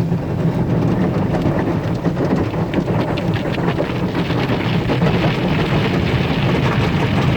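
Automatic car wash brushes and water spray working over a car, heard from inside the cabin: a steady low rumble with a dense patter of cloth strips and water lashing the body, thickest in the middle of the stretch.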